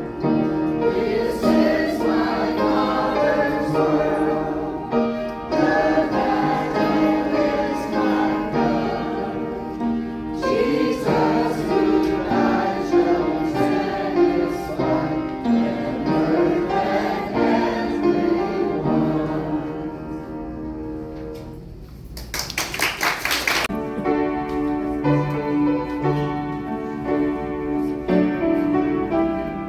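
Amateur choir singing with piano accompaniment. About two-thirds of the way through the singing dies down, a brief noisy burst sounds, and the piano and voices go on again.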